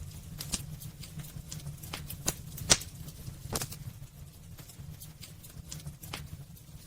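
Wood fire burning in a fireplace: irregular crackles and pops, about one or two a second, over a low steady rumble of the flames. The loudest pop comes a little under three seconds in.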